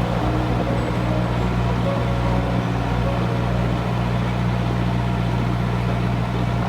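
A narrowboat's engine running steadily under way, a constant low hum.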